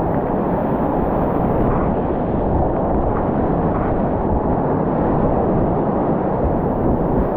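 Whitewater rapids rushing: a loud, steady, muffled rush of fast-moving water.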